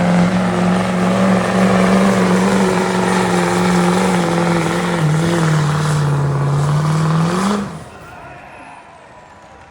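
Diesel pickup engine running hard at high revs, its pitch slowly sagging, then briefly rising before it cuts off suddenly about three-quarters of the way through.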